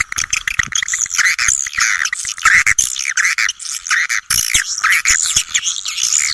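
Swiftlet lure call: a dense, rapid stream of high chirps and twitters mixed with short clicks. This is a recorded calling sound played to draw edible-nest swiftlets into a swiftlet house.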